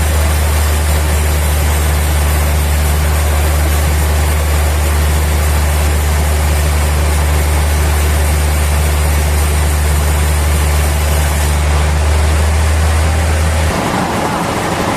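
Sawmill machinery running steadily with a strong low hum. Near the end the hum drops out and a brighter, rougher noise takes over.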